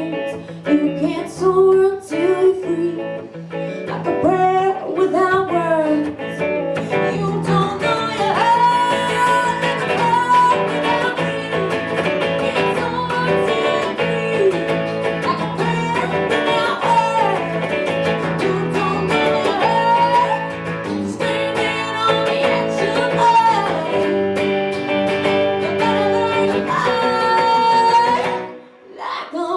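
A live Americana song: a woman singing over guitar. The music drops away briefly just before the end.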